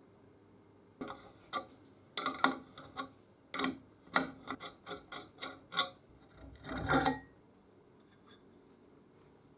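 Clicks and knocks of hand work on a rusty metal sheet shear: about a dozen sharp knocks over five seconds, then one short rasping scrape.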